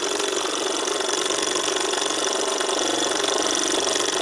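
Davies Charlton hot air engine running steadily at speed, an even, fast mechanical running sound; its gas burner is fed from a freshly topped-up bottle, giving higher revs.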